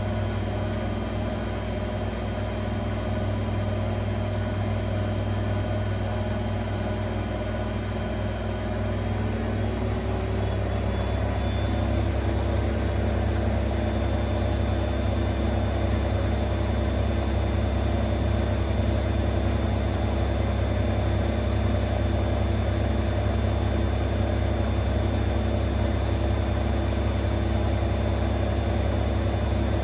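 Zanker EFX 4875 washing machine in its final spin, the motor and drum running steadily, then rising in pitch and getting a little louder about ten seconds in before holding steady at the higher spin speed.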